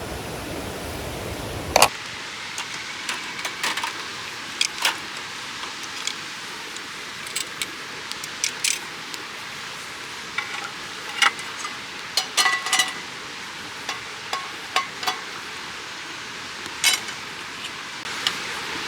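A frying pan sizzling, with a steady high hiss, and many light metal clinks and taps from utensils working the food, some of them ringing briefly. For the first two seconds there is a broader rushing noise, which stops abruptly after a sharp click.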